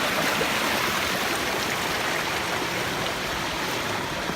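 Steady rush of running water from a canyon stream, an even hiss with no break.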